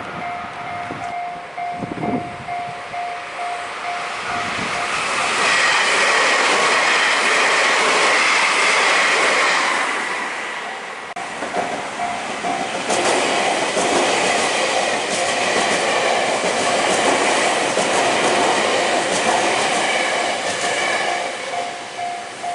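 Electric train running past at a level crossing while the crossing's warning bell rings in an evenly repeating tone. The train noise swells about five seconds in, dips briefly near eleven seconds, then builds again.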